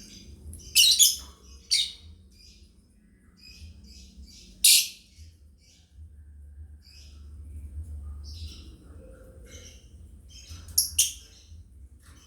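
Lovebirds chirping: a steady run of short, high chirps broken by several loud, harsh squawks, the loudest about a third of the way through and two close together near the end.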